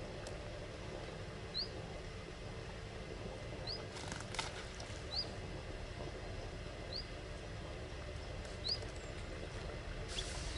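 A small bird repeating a short, rising chirp every second and a half or so, over a low steady rumble. There are two brief rustles, about four seconds in and near the end.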